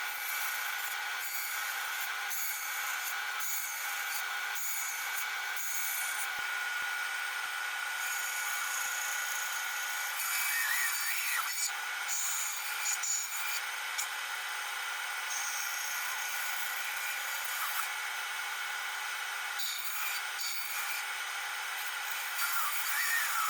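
Bandsaw running with a 12 mm blade and cutting a board along a curved line, a steady whine with rubbing and rasping from the wood. Brief wavering squeals come about ten seconds in and again near the end, as the blade, too wide for the tight radius, struggles to make the turn.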